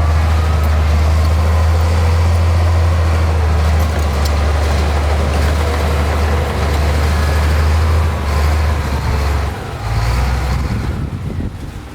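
Heavy diesel earthmoving machinery running under load, a loud steady low engine drone. The engine note drops and changes about ten seconds in, and the sound grows quieter near the end.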